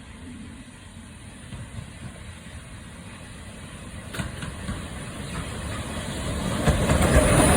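Train approaching, its rumble and hiss building steadily louder to a peak near the end.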